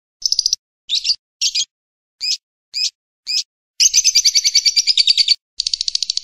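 Recorded bird calls: a series of short, buzzy chirps about twice a second, then a rapid trill of many quick notes, which pauses briefly and resumes near the end.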